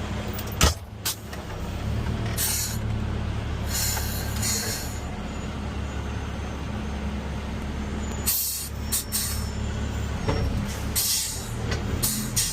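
Front-loader garbage truck's diesel engine running steadily, with two sharp knocks under a second in and several short hisses of air spread through the rest.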